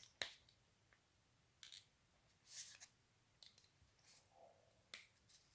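Faint, scattered clicks and taps of small die-cast toy car parts being handled and fitted during reassembly, a handful in all, the sharpest about a quarter second in.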